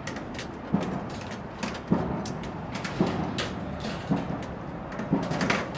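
Irregular sharp knocks and clanks, roughly one or two a second, from hand work on sheet metal being fitted around a chimney, over a steady background noise.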